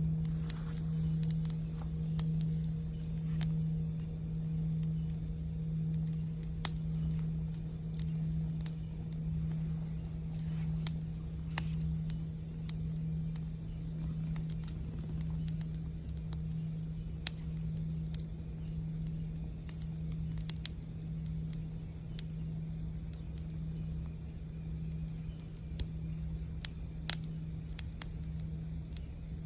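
Singing bowl ringing with a low, steady hum that wavers in a slow, even pulse, over a campfire with scattered sharp crackles and pops.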